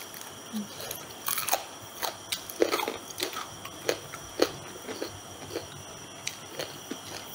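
Close-up eating sounds of crispy flour-battered fried chicken feet being bitten and chewed: irregular crunches and wet chewing, thickest in the first few seconds and thinning out near the end. A faint steady high tone sits underneath.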